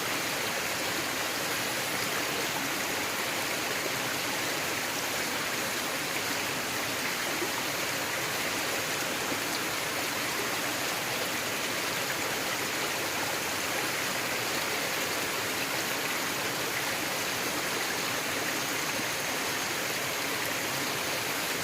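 Forest stream flowing, a steady, even rush of water with no change in level.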